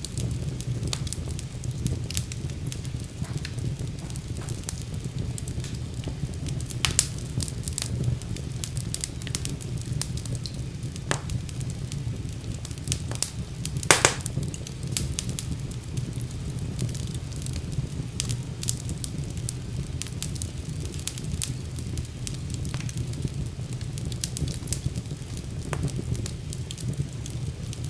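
Wood fire burning in a fireplace: a steady low rumble of flames with frequent irregular crackles and pops, one louder pop about halfway through.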